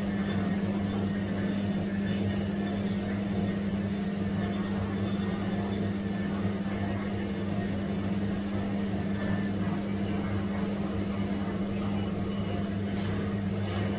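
Bosch washing machine running, a steady hum over a broad whooshing drone, with a couple of faint ticks near the end.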